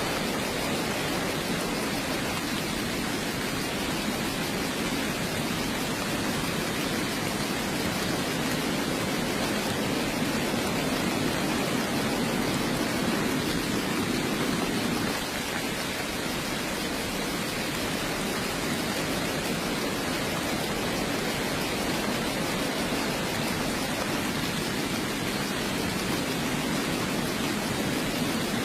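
Steady heavy rain, an even wash of noise heaviest in the low-middle range, with a slight drop in level about halfway through.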